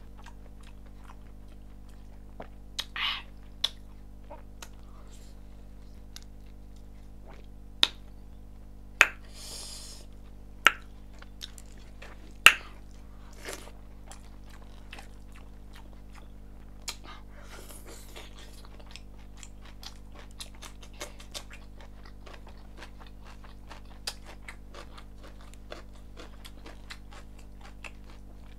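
Close-miked mouth sounds of eating chicken curry and rice: wet chewing and lip smacking with many small clicks, and a few loud sharp smacks about a third of the way through. A steady low hum runs underneath.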